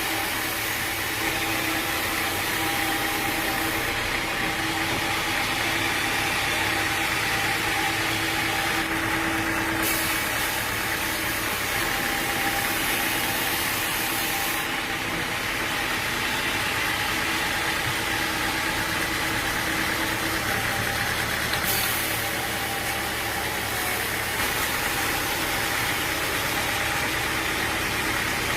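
An engine running steadily with a constant mechanical hum, cut between shots a few times without the running sound changing much.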